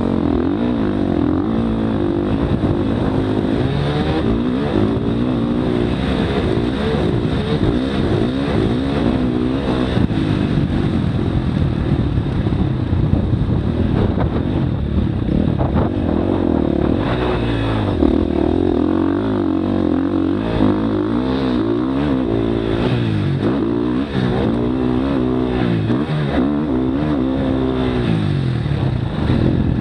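Motocross dirt bike engine revving hard, its pitch rising and dropping again and again as the throttle is worked and the gears change.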